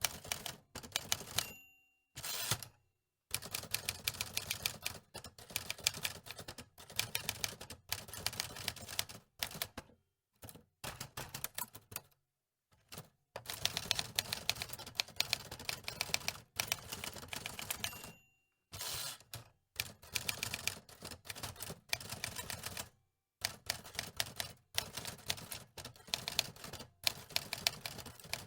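Manual typewriter being typed on: keys clacking in quick runs with short pauses between. Twice, near the start and again about two-thirds through, a short bell ding is followed by a longer sliding sound as the carriage is returned.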